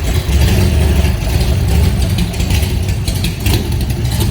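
Big-block V8 of a 1965 Shelby Cobra, a 427 aluminum side-oiler bored out to about 463 cubic inches, running loudly seconds after a stone-cold start.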